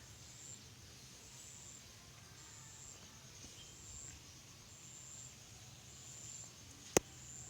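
An insect calling outdoors: a short high-pitched chirp repeated about once a second, over a faint low hum. A single sharp click near the end is the loudest sound.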